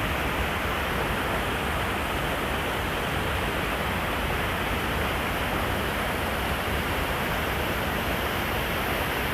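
Steady rush of falling water from a waterfall, an even noise that holds constant throughout.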